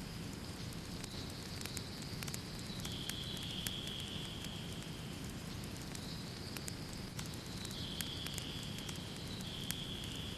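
Wood fire crackling in a fireplace: irregular sharp pops and snaps over the low, steady rumble of the flames, with a faint high hiss that shifts in pitch a few times.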